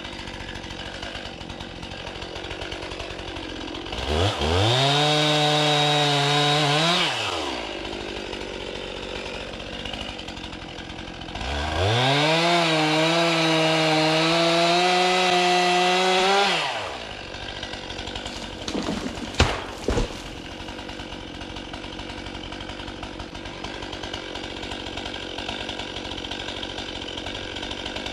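Chainsaw idling, then opened up to full throttle twice, for about three and five seconds, its pitch wavering under load as it cuts through dead, dry firewood trees, then dropping back to idle. Two short sharp knocks about nineteen seconds in.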